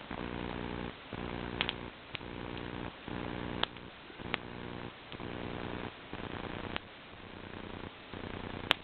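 A wood bonfire crackling, with a few sharp pops, the loudest near the end. Underneath runs a low purring drone that pulses on and off about once a second.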